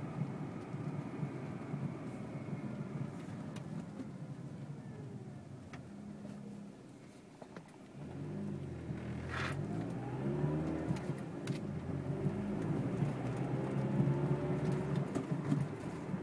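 Chevrolet Cobalt SS driving, heard from inside the cabin: road and engine noise that eases off, then picks up again with the engine rising about halfway through. Under it is a dull knocking a few times a second from the passenger-side front wheel area, which comes in the first minutes of driving and which the owner suspects is a flat spot on a tire.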